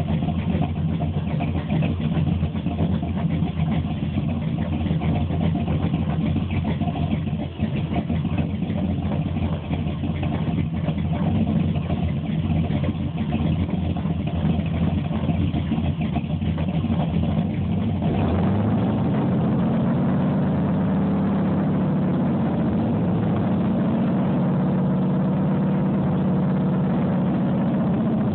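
Big-block Chevy ZZ502 V8 with Powerjection III throttle-body fuel injection running, unsteady at first; about two-thirds of the way through the sound changes and the engine settles into a steadier, slightly higher-pitched run.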